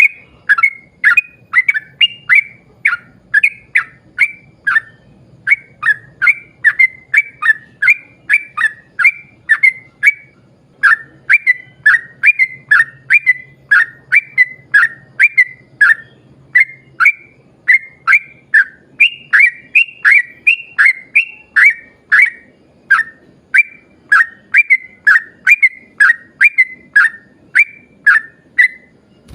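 Yellow-vented bulbul (trucukan) singing a long run of short whistled notes, about two a second, each dropping in pitch, with brief pauses about 5 and 10 seconds in.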